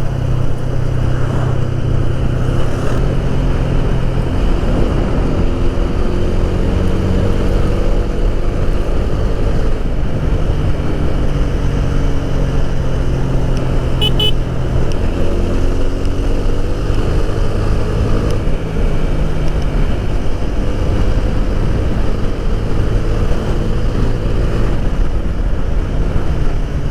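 Motorcycle engine running on the road with heavy wind rumble on the action camera, its pitch rising and falling as it speeds up and eases off. A short horn beep sounds about halfway through.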